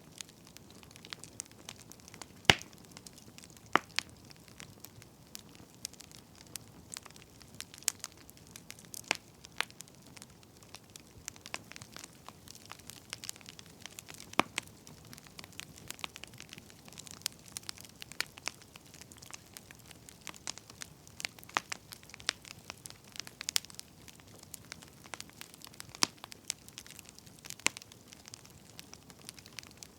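Wood fire crackling, with irregular sharp pops and snaps over a faint steady hiss; the loudest pop comes about two and a half seconds in.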